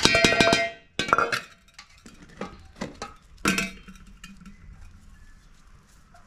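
Metal sufuria cooking pot and its lid clinking and clanking: a quick cluster of ringing metal-on-metal strikes at the start, then a handful of separate knocks over the next few seconds before it goes quieter.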